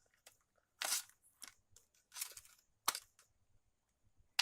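Earphone packaging being handled: a few short crinkling rustles with two sharp clicks, one about three seconds in and one at the very end.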